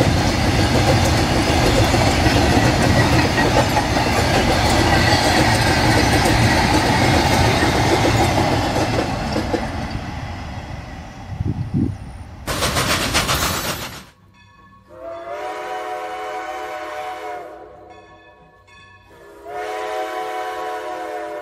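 Freight train of covered wagons rolling past with a steady heavy rumble and wheel clatter, fading away after the brake van goes by. Then a short loud whoosh, and two long steady multi-note tones a few seconds apart.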